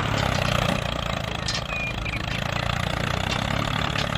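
Small engine running steadily at idle.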